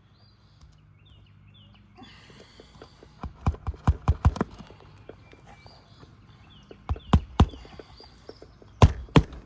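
Clusters of sharp knocks on an asphalt shingle roof: about six in quick succession three to four seconds in, three more around seven seconds, and three near the end. Faint short bird chirps sound in the background.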